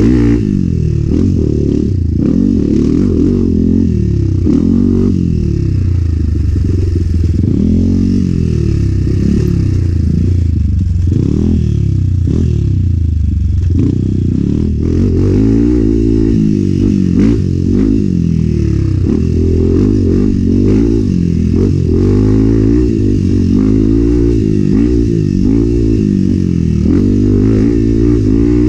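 Enduro motorcycle engine revving up and dropping back again and again, pitch rising and falling every second or two as the rider works the throttle and gears on the trail, with scattered knocks from the bike over rough ground.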